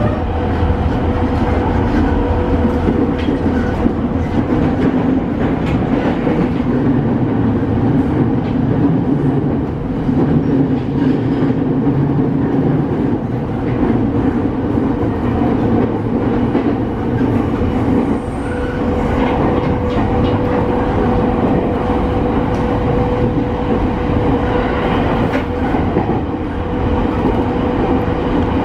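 Running noise inside a JR East E217-series motor car (Mitsubishi IGBT-VVVF) travelling between stations: a steady rumble of wheels on rail with scattered rail-joint clicks. A steady hum fades soon after the start and comes back about two-thirds of the way through.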